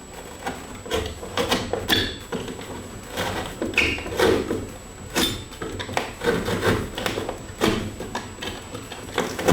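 Cardboard box being cut and handled: irregular scraping, rustling and light knocks.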